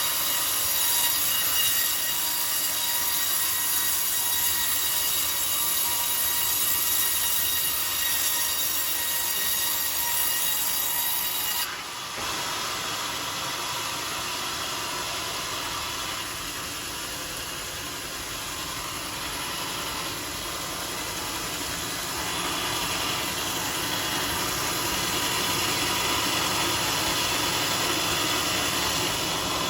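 Sawmill circular saw blade running through a coconut log, a steady high whine with hiss. About twelve seconds in the sound drops abruptly and turns quieter and lower.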